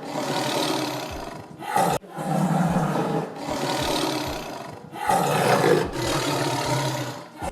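A big cat roaring: three long roars of about two seconds each, with short breaks between them.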